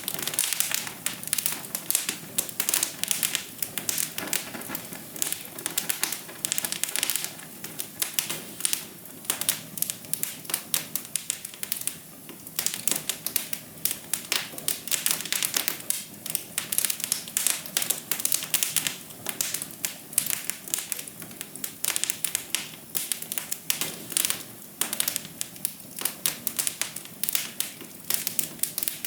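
Wood fire crackling: dense, irregular pops and snaps over a steady low rush of burning.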